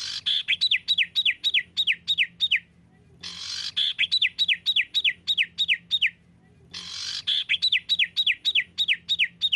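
Recorded songbird song repeated as a loop: three phrases, each a rapid string of about nine clear down-slurred whistled notes at roughly four a second. Each phrase begins with a short hiss and ends abruptly.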